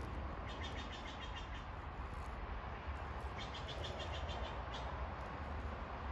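A small bird's rapid, high-pitched chirping trill, heard twice, each lasting about a second, over a steady low outdoor rumble.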